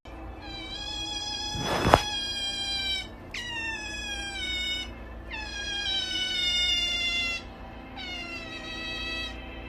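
A cat meowing in four long, drawn-out calls, each sliding slowly down in pitch, with a brief sharp noise about two seconds in.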